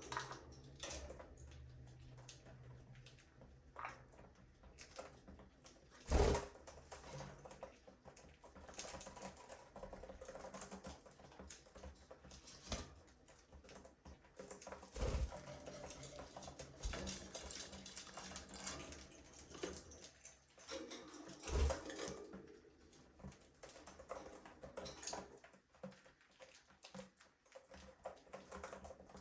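Budgerigars chattering in an aviary, a dense run of small clicks and scratchy chirps, with three louder thumps along the way.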